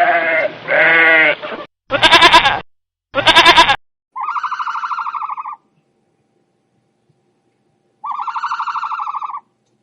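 Livestock bleating in a run of separate calls: one ends under two seconds in, two short loud bleats follow, then two long quavering bleats about four seconds apart with silence between.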